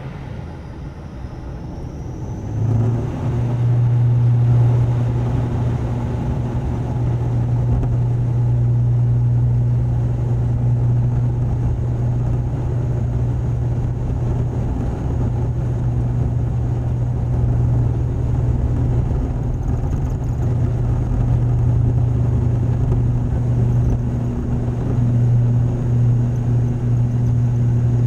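ATR turboprop airliner's engines heard from inside the cabin, a rising whine as they spool up to takeoff power about three seconds in, then a steady, loud low propeller drone for the takeoff run.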